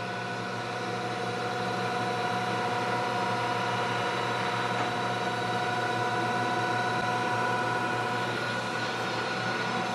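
Headstock electric motor of a Brown & Sharpe No. 1 cylindrical grinder running on first power-up, a steady hum with a whine over it. It grows a little louder over the first few seconds, then holds steady.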